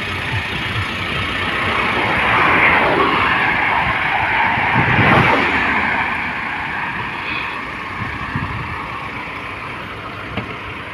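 Motor vehicle noise: a steady rush that swells louder a couple of seconds in and eases off after about six seconds.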